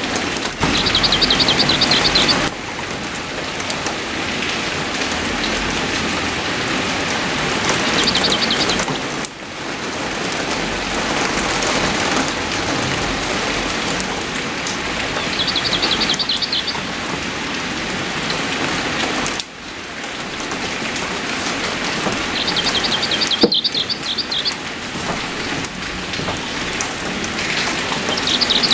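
Steady heavy rain, with a bird's short high trill recurring about every seven seconds, five times in all. The rain changes abruptly in loudness a few times.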